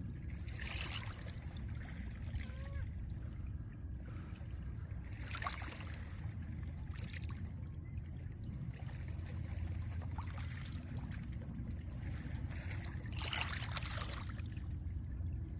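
Small lake waves washing in over a pebble shore, each wash a hiss of water running through the stones, three times, over a steady low rumble.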